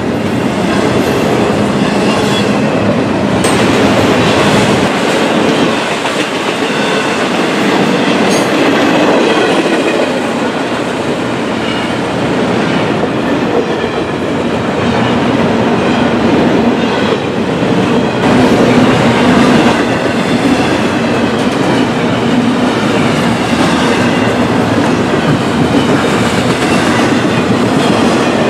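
CSX freight cars rolling past at close range: a steady rumble and clatter of steel wheels on the rails, with faint wheel squeal at times.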